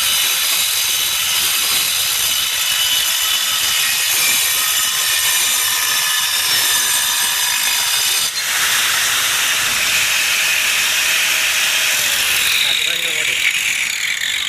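Doliz BA 370 handheld angle grinder running at full speed with a steady high-pitched whine. About eight seconds in it briefly drops out, then sounds rougher and noisier, as if working on material, and its pitch begins to fall near the end.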